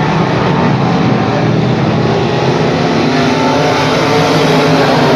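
Race car engines running hard during a heat race: a loud, steady engine drone with no let-up.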